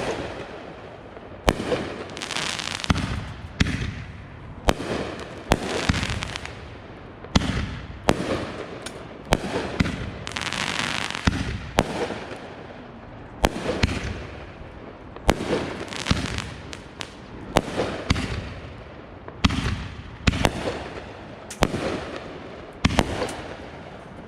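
Consumer aerial fireworks going off in quick succession: a sharp bang about every second or so, with a noisy hiss between the bangs.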